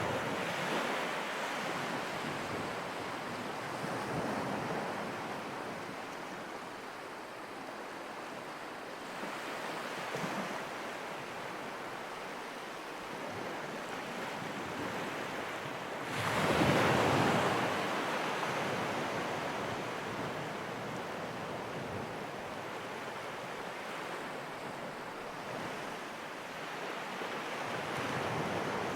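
Ocean surf washing ashore in slow swells that rise and fall, the loudest wave breaking about sixteen seconds in.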